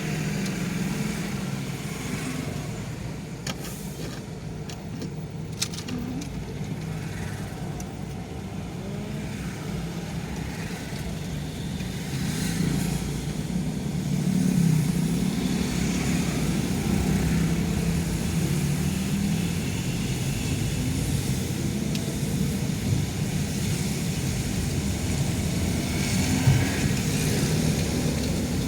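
A car being driven, heard from inside the cabin: a steady rumble of engine and road noise that grows somewhat louder about halfway through.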